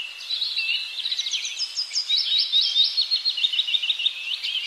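Small birds singing: high chirps, then quick runs of repeated short notes.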